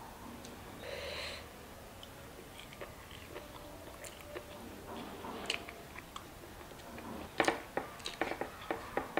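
Close-miked chewing and mouth sounds of a person eating mutton curry and rice by hand, with soft scattered clicks and a quick run of sharper smacks and clicks near the end.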